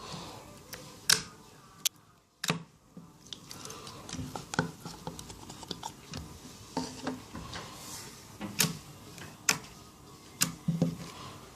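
Thick clear slime being squeezed and worked by hand, giving irregular sharp pops and clicks, about ten of them, with softer sticky squishing sounds between.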